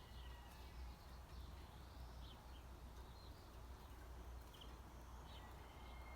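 Faint, distant birds giving short, scattered chirps, with a thin held whistle near the start and again near the end, over a low steady rumble.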